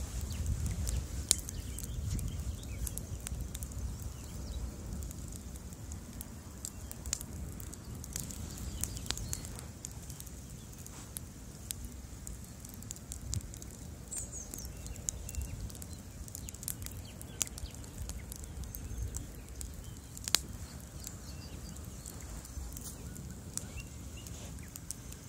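Bonfire burning: a low, steady rumble of flames with frequent sharp crackles and pops from the burning wood.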